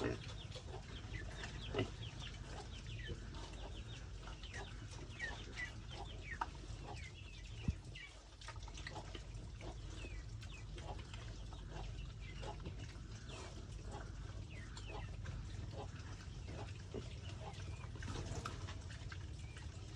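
Farm animals at feed, making many short high-pitched calls and squeaks throughout over a steady low rumble.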